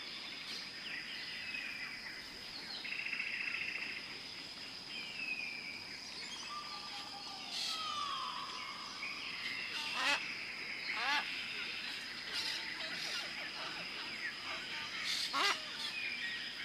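Several birds calling and singing: short downward-gliding whistles and chirps, with a few sharper calls about ten, eleven and fifteen seconds in. A steady high-pitched tone runs underneath.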